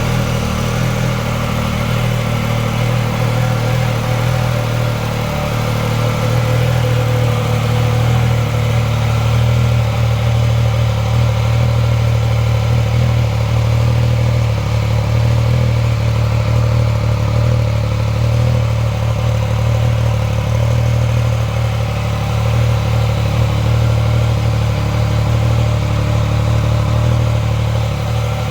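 Triumph Speed Triple 1200 RR's inline three-cylinder engine idling steadily through a Pro Race exhaust, growing slightly louder a few seconds in.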